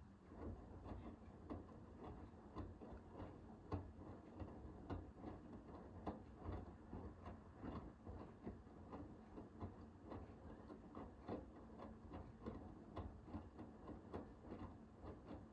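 Hoover H-WASH 500 front-loading washing machine tumbling its load in the wash phase of a cotton 60 °C cycle. The drum starts turning at the very beginning, then gives a quick, uneven patter of soft knocks and swishes from the wet laundry and water.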